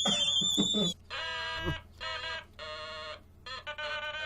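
An electronic toy sounding a shrill, steady high beep with voices over it, then a run of about four short buzzy electronic notes with brief gaps between them.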